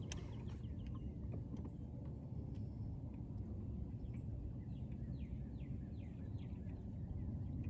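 Birds calling in runs of short, quickly falling chirps, busiest around the middle, over a steady low rumble.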